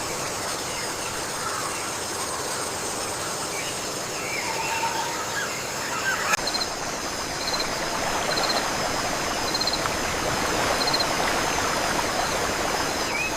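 Wild outdoor ambience: a steady hiss under several high, steady whining tones typical of insects, with scattered bird chirps in the first half and a short high call repeated about once a second from about halfway through.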